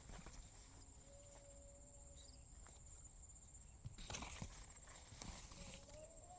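Faint countryside ambience: insects giving a steady high-pitched drone, with a few footsteps about four and five seconds in.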